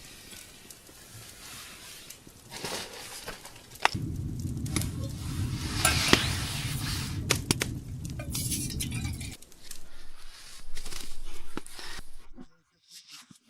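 Clinking and knocking of camp cookware being handled, a string of separate sharp clicks and knocks. A steady low rumble runs underneath from about four to nine seconds in.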